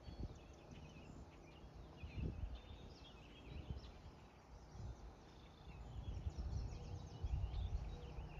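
Faint songbirds chirping over uneven low rumbling noise, which swells about two seconds in and again near the end.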